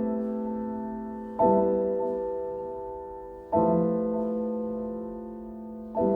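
Slow, quiet piano music: chords struck about every two seconds, each left to ring and fade before the next.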